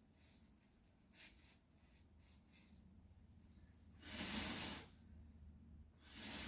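Two short hissing bursts of spray, the second about a second after the first ends, with a few faint ticks before them.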